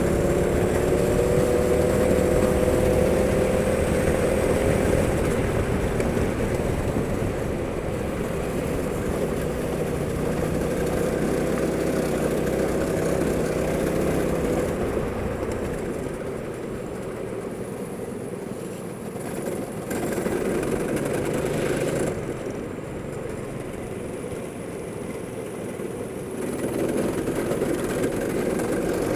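Go-kart engine running on track, its pitch rising and falling as it speeds up and slows. It is louder for the first fifteen seconds or so, then quieter, with short louder spells near the end.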